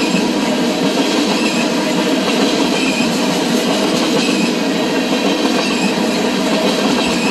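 Freight train tank cars rolling past close by: a loud, steady rumble and rattle of steel wheels on the rails, with a clickety-clack over the rail joints.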